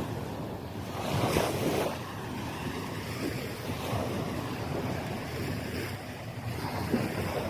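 Small waves washing up on a sandy beach, with wind rumbling on the microphone; one wash swells louder about a second in.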